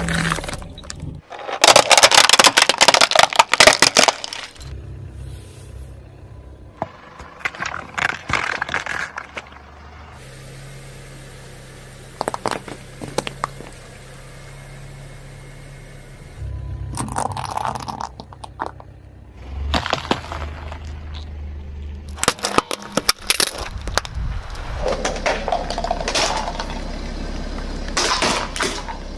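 Car tyres rolling over and crushing objects: about seven separate bursts of crunching, cracking and crackling over the car's low, steady engine hum.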